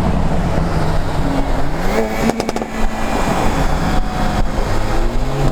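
Car engine pulling under acceleration, its pitch rising about a second in and again near the end, with a quick run of sharp crackles about two and a half seconds in.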